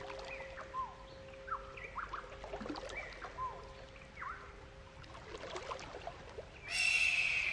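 Birds chirping: repeated short, downward-sweeping calls over a steady low hum that fades out about halfway. Near the end a louder, held high-pitched call comes in.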